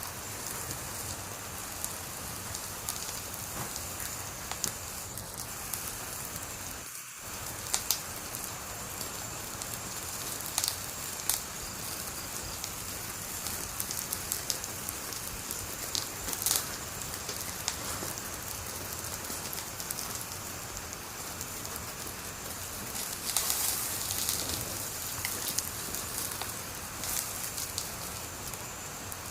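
Wood fire burning: a steady hiss with frequent sharp crackles and pops, thickening into a denser burst of crackling a little before the end.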